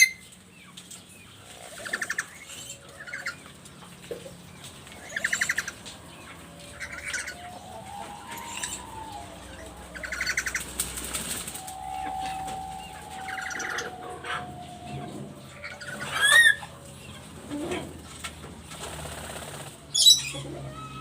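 Black-capped lory calling: a run of short harsh, buzzy calls mixed with whistled notes that glide up and down, and two loud rising squeals, one about two-thirds in and one near the end.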